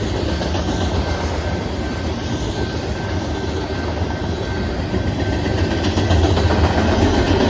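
Canadian Pacific manifest freight train rolling past: a steady rumble of wheels on rail with the clickety-clack of wheels over rail joints, growing slightly louder and busier near the end.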